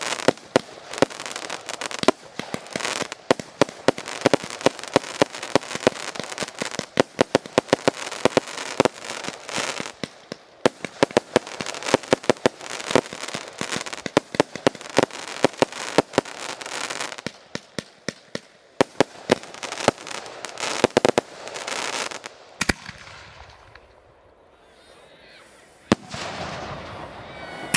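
Fireworks display: a rapid barrage of sharp firework bangs and crackles in quick succession. It thins out near the end into a quieter stretch, broken by a single bang.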